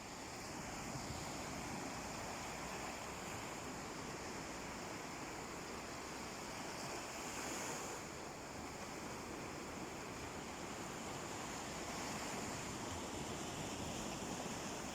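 Sea waves washing onto a beach: a steady rush of surf that swells a little about halfway through.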